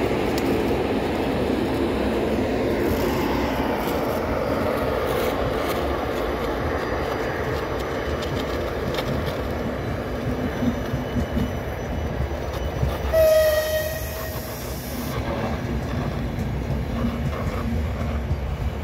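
Passenger train of coaches rolling slowly past, its wheels giving a steady low rumble on the rails. A horn sounds briefly about 13 seconds in.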